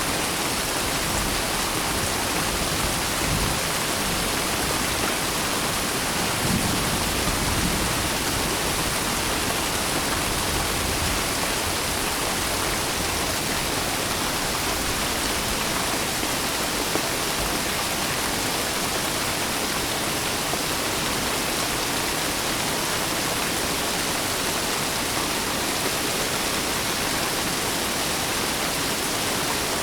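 Steady rain falling in an even hiss, with a faint low rumble swelling briefly about six to eight seconds in.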